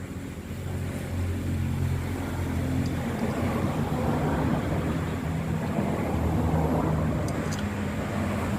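A steady low engine drone that swells about a second in and then holds, with a couple of faint ticks near the end.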